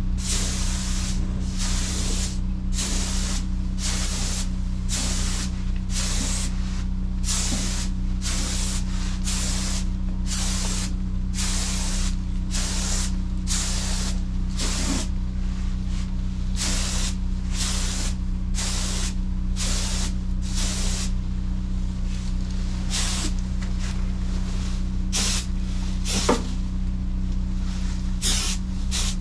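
Paint spray gun laying a coat of base coat: a hiss of air and paint in short trigger-pulled passes, about one to two a second, with the passes spacing out near the end. A steady low hum runs underneath.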